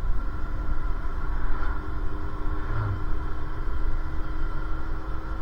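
Fire truck engine running while the truck drives along: a steady low rumble with a faint steady whine, heard from inside the cab.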